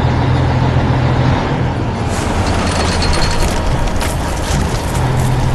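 Heavy construction machine engine running with a steady low hum; after about a second and a half it gives way to a rougher, clattering stretch with scattered knocks, and the steady hum comes back near the end.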